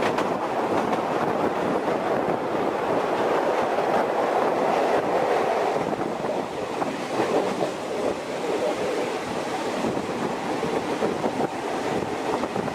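Express passenger train running along the rails: a steady rumble of wheels and carriages with faint clicks from the track joints.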